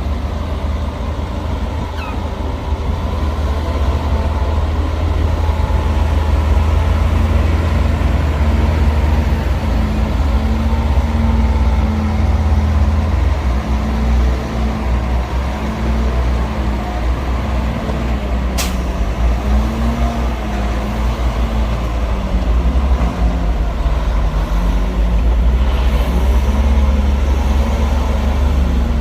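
Heavy diesel earthmoving machinery running: a loud, steady, deep engine rumble whose note rises and falls. There is one sharp knock about two-thirds of the way through.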